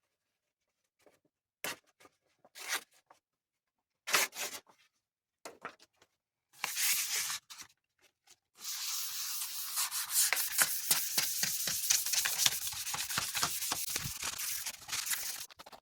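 Sandpaper rubbed rapidly back and forth by hand over a surface, preparing it for paint. A few brief scuffs come first, then steady quick sanding strokes from about halfway in until just before the end.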